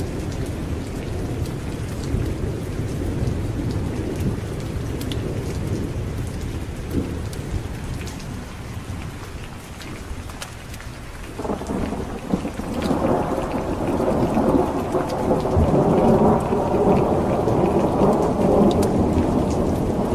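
Steady rain with rolling thunder: a low rumble fades over the first half, then a new peal breaks in suddenly a little past halfway and builds, loudest near the end.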